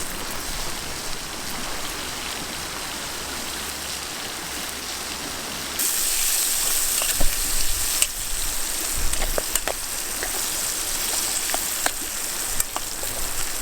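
Raw chicken sizzling on a grill over a campfire. The sizzle gets louder and brighter about six seconds in, with scattered pops and crackles.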